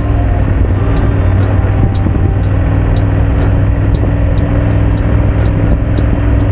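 Motorcycle engine running steadily on the move, under a strong low rumble.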